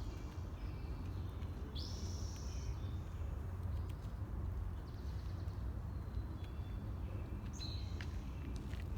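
Small wild birds calling, with short high chirps scattered through, the clearest about two seconds in and again near the end, over a steady low rumble.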